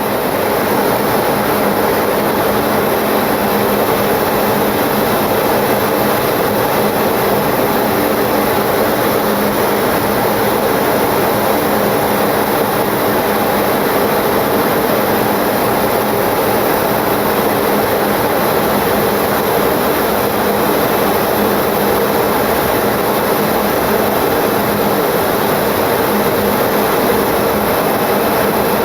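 Steady in-flight cockpit noise of a Boeing 727-200: an unbroken rush of airflow with a faint steady hum underneath.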